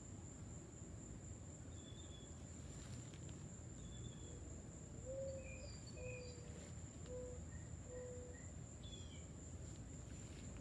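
Faint outdoor ambience: a steady, high-pitched insect trill runs throughout. Scattered short bird chirps and whistled notes come in, including a run of four short low notes about halfway through, over a low background rumble.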